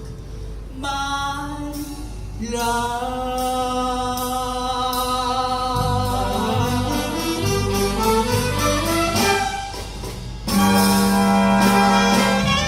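Jazz big band playing a slow passage of long held chords with a singer, swelling louder about ten seconds in.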